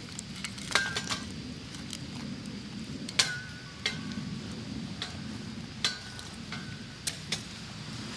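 Metal cookware and utensils clinking several times, three of the clinks ringing briefly, over a steady low background.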